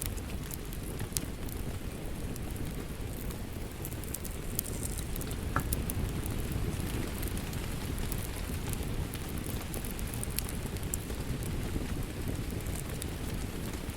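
Steady rain with a crackling wood fire: a low, even rush of rainfall, with sharp pops and snaps from the fire scattered throughout.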